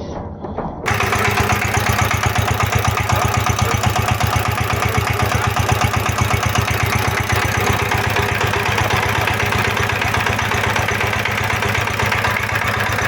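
Horizontal single-cylinder diesel engine of 20 hp running steadily with an even, rapid beat; it comes in abruptly about a second in.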